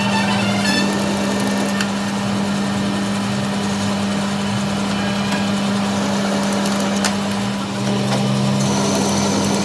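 A machine motor running with a steady hum, with a few light clicks and scrapes.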